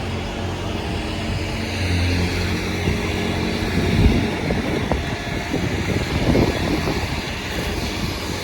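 Steady vehicle rumble with a broad hiss of road or wind noise, and louder low buffeting rumbles about four and six seconds in.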